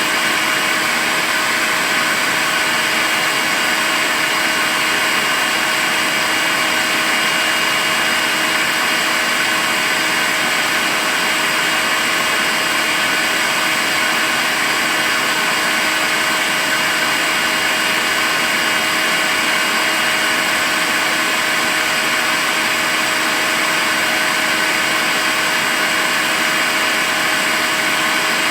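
Makita cordless stick vacuum cleaner running continuously at a constant speed: a steady motor whine over an even rush of air.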